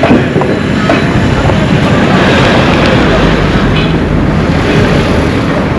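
A road vehicle passing close by on the street, a dense rumble and tyre noise that swells about two seconds in and holds.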